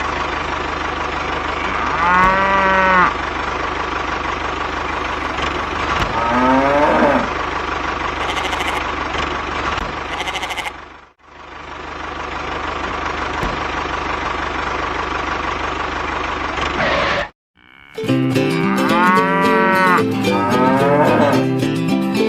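Cattle moo a few times, one long call each, over the steady hum of a running engine. About three-quarters of the way through, the engine hum stops and plucked-string music begins, with more mooing over it.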